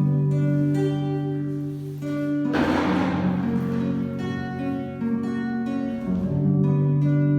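Instrumental music played on a plucked string instrument, a guitar-like melody of held notes, with a brief burst of strumming about two and a half seconds in.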